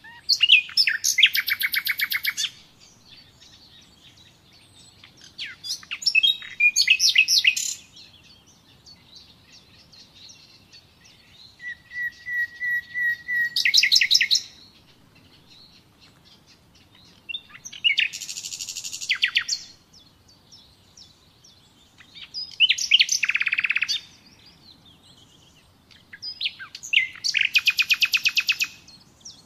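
Common nightingale singing in separate phrases of about two seconds with short pauses between, six in all, each built from fast repeated notes. The phrase in the middle opens with a row of soft, even whistles that break into a rapid trill.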